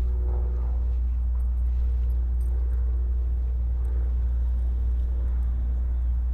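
A steady low rumble with no breaks or changes.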